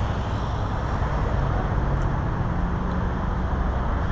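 Road traffic going by: a steady rumble of car engines and tyres.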